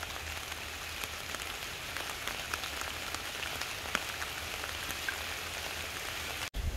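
Steady rain falling, with scattered sharper taps of single drops. The sound drops out briefly near the end.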